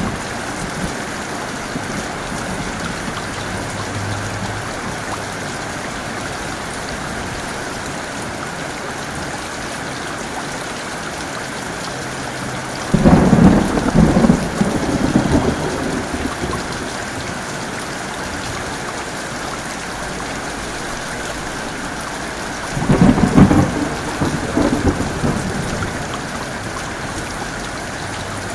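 Heavy rain falling steadily, with two claps of thunder, one about halfway through and another about ten seconds later, each breaking in suddenly and rumbling away over two or three seconds.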